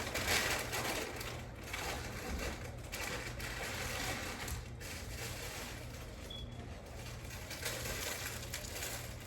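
Grocery packaging being handled and moved about, giving irregular rustling and crunching noises over a steady low hum.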